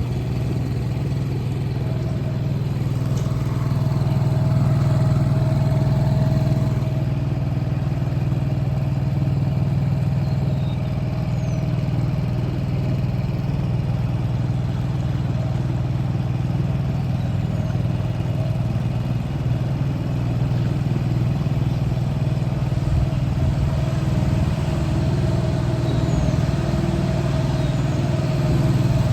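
Seven-horsepower four-stroke outboard motor running steadily at part throttle, about halfway, with a steady low hum and an even level: the motor is new and is being kept below full throttle while it is broken in.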